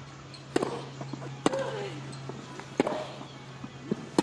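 Tennis ball struck back and forth with rackets in a rally: four sharp knocks about a second apart, each followed by a short grunt from the players, over a low steady hum.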